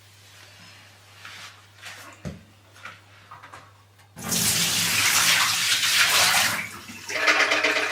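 Collected water poured out of a dehumidifier's plastic collection tank, gushing suddenly about four seconds in and running on more unevenly near the end, after a few light clicks and knocks as the tank is handled.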